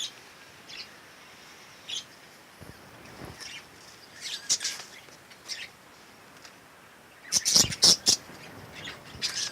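Budgerigars chirping in short, high-pitched calls, scattered at first, with a louder burst of several chirps about three-quarters of the way in.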